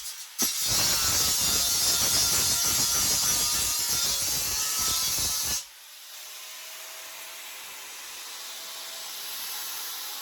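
Angle grinder cutting through a steel pit bike frame. It breaks off briefly just after the start, cuts steadily, then stops about halfway through. The disc then spins down with a faint whine that falls slightly in pitch.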